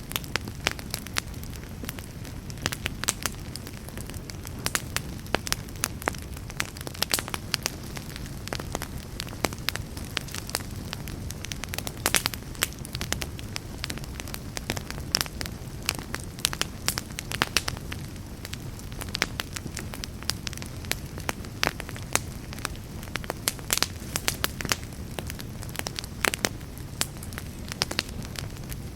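Wood fire burning in a fireplace: frequent irregular crackles and sharp pops over a steady low rumble and hiss.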